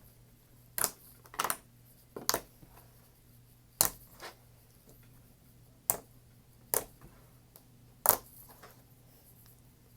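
Thick slime being played with by hand, giving about eight sharp clicks and pops at uneven intervals over a faint steady hum.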